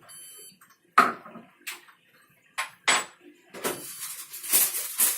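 Sharp knocks and clicks from handling a Candy washing machine, the loudest about a second in and a few more over the next two seconds, then a stretch of uneven rustling and clatter.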